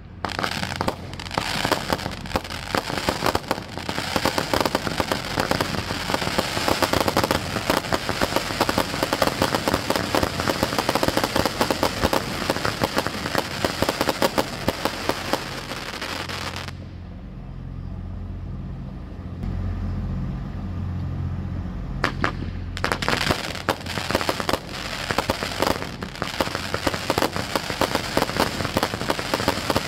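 A case of Under Construction 200-gram consumer firework cakes going off together: dense, rapid, overlapping shots. They break off for about six seconds past the middle, leaving only a low rumble and a few scattered shots, then resume just as densely.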